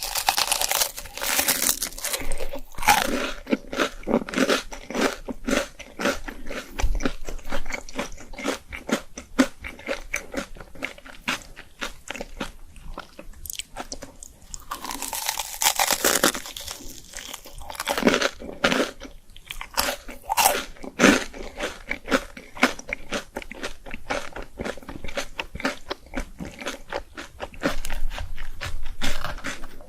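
Close-miked eating: crunchy bites into crispy fried food followed by steady crackly chewing, with louder bites near the start, about halfway through and again a few seconds later.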